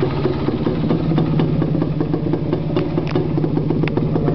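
1978 Yamaha DT250's single-cylinder two-stroke engine idling steadily, with a few light clicks about three seconds in.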